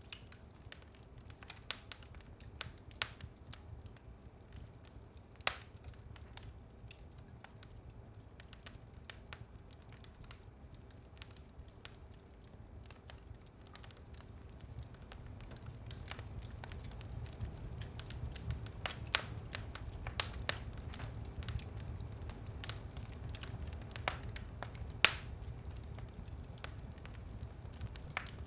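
Wood fire in a fireplace crackling and popping, irregular sharp snaps over a low rumble of the flames that gets a little louder about halfway through, with one loud pop near the end.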